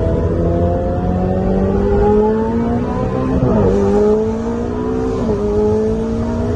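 Ferrari 488 GTB's twin-turbo V8, breathing through a newly fitted Fi valved exhaust, accelerating on the road. The engine note climbs steadily and drops sharply at two upshifts, about three and a half and five seconds in.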